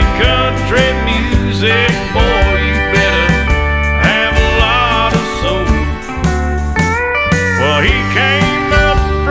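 Country music instrumental break: a steel guitar plays gliding, bending notes over a steady bass and drum beat.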